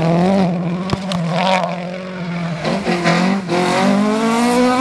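Rally car engine running hard at high revs, its pitch sagging and climbing with throttle and gear changes and rising near the end, with several sharp cracks.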